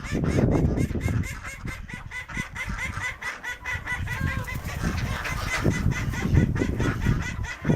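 A flock of farm poultry calling over and over in short, quick, high calls, with a low rumbling noise underneath.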